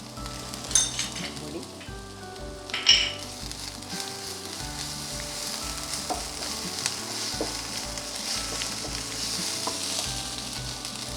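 Onion and ginger-garlic masala sizzling in coconut oil in a pan as it is stirred, with two sharp clinks of a utensil in the first three seconds. The sizzle grows stronger through the second half.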